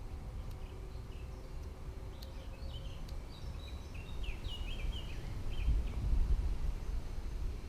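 A bird chirping a quick series of short notes over a steady low rumble, which swells louder about six seconds in.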